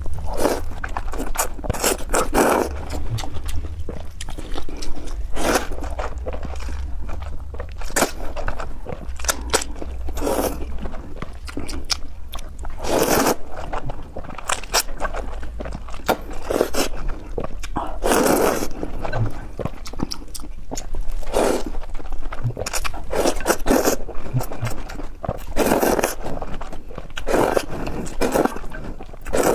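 Close-miked eating: repeated bouts of chewing and crunching, with utensils scraping against the food container, coming every second or two over a low steady hum.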